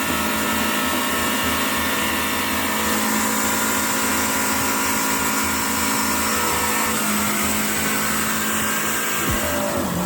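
A motor running steadily under load, its pitch shifting about seven seconds in.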